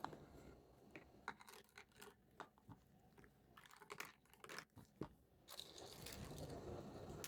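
Faint handling of small plastic toy pieces: scattered light clicks and taps, with a soft rustling from about five and a half seconds in.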